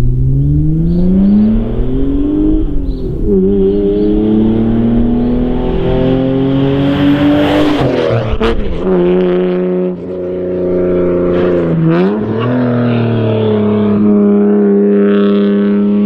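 Toyota JZX90 Mark II's twin-turbo 1JZ-GTE straight-six through a straight-piped dual exhaust, accelerating through the gears. The pitch climbs and drops sharply at the upshifts about 3, 8 and 12 seconds in, then holds nearly steady.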